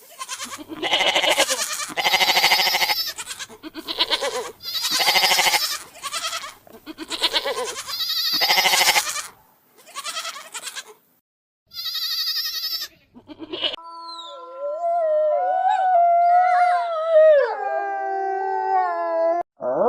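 Farm animals bleating over and over, a dozen or so short, quavering calls in quick succession. About two-thirds of the way in the calls give way to a smoother, sliding tone that wavers and falls in pitch, like a long howl.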